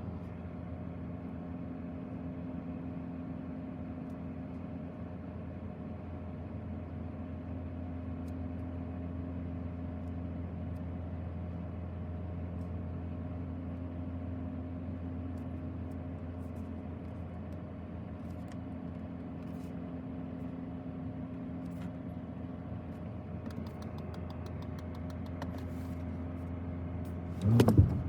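Steady low hum inside a stationary car's cabin, with the 2024 BMW X2 M35i idling. Faint clicks come near the end, then a brief, louder sound that rises in pitch.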